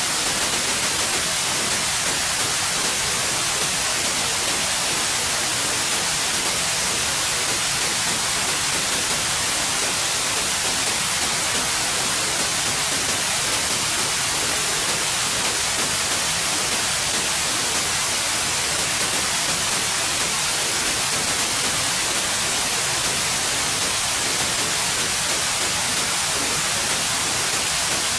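Steady white noise: an even, unchanging hiss, brightest in the high frequencies, with no breaks or variation.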